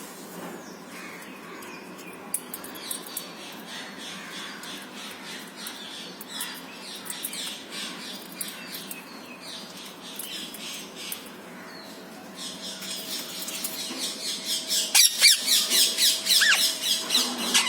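Young parrots squawking: faint short calls at first, then from about twelve seconds in a loud, rapid run of sharp squawks, several a second.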